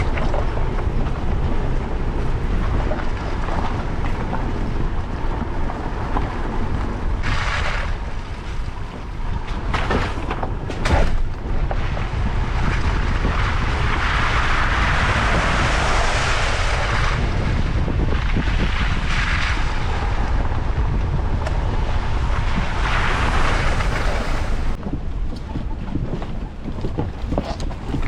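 Toyota 4Runner driving off-road: a steady low rumble of engine and tyres with wind buffeting the microphone. Several louder hissing stretches come and go, the longest about halfway through.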